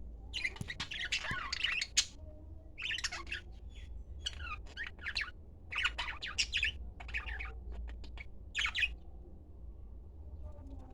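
A small bird chirping and twittering in a string of short, quick bursts, with the chirping ending about nine seconds in. A steady low hum runs underneath.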